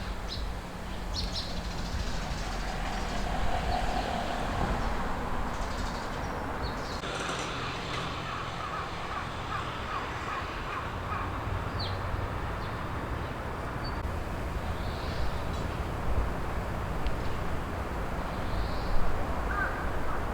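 A crow cawing over a steady low background rumble, with a few faint, short, high bird calls.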